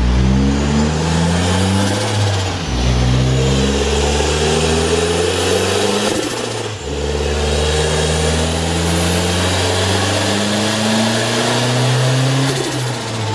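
Turbocharged Mazda MX-5 engine accelerating hard under load, its pitch climbing, dropping back sharply twice and climbing again. A faint high whine rises along with it.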